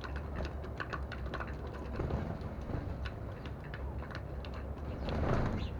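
Sparrows pecking seed from a feeding dish: many quick, irregular beak clicks and taps. There is a louder rustling burst about five seconds in, over a steady low background rumble.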